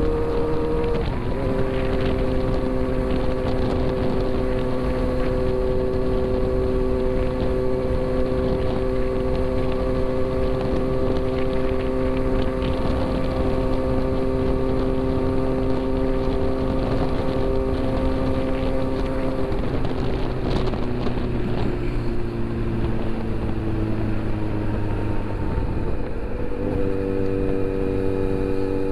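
Motorcycle engine running under way at steady revs, with wind noise on the microphone. The engine note steps up about a second in, then holds. Past two-thirds of the way through it drops and falls slowly as the bike eases off, then jumps back up near the end.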